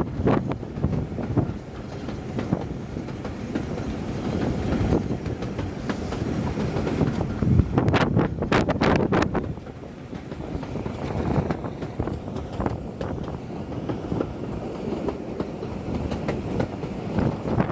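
Steam-hauled passenger train running, heard from an open carriage window: steady wheel-on-rail rumble and clickety-clack with air rushing past, and a quick run of sharp clicks about eight seconds in. The train is hauled by Bulleid West Country class light pacific 34092 City of Wells.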